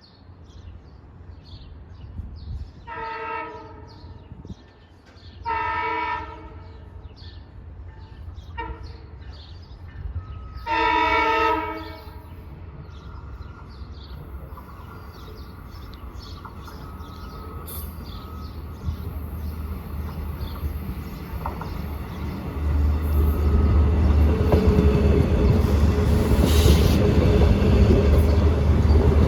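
Long Island Rail Road diesel train sounding its horn in the long-long-short-long grade-crossing pattern as it approaches, then a low rumble of the engine and wheels growing steadily louder as the train nears and arrives.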